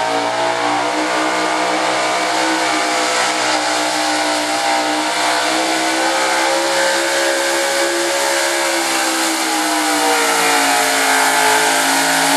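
Super Stock 4x4 pulling truck's engine running flat out under load during a pull, holding high revs with slight dips and rises in pitch.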